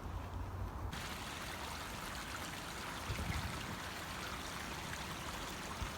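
Steady rush of a forest stream's running water, coming in abruptly about a second in over a low rumble.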